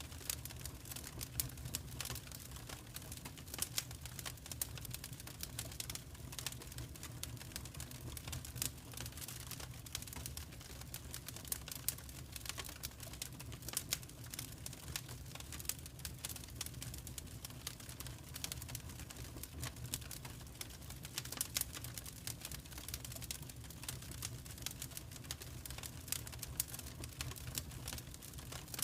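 Wood fire crackling in a fireplace: dense, irregular snaps and pops over a low, steady rumble of the burning.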